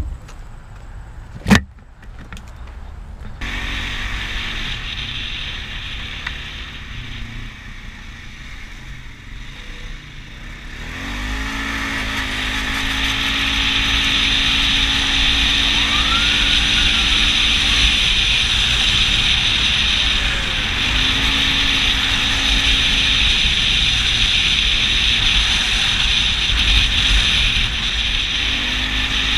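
Motorcycle engine running at a steady pace with wind noise while riding, getting louder about eleven seconds in; its tone drops out and comes back a few times. A single sharp crack sounds about a second and a half in.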